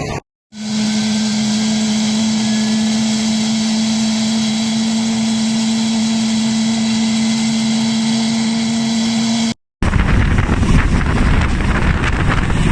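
Military helicopter running: a steady low hum over a loud rushing noise. After a short cut near the end, rotor wash hits the microphone with a gusty rumble.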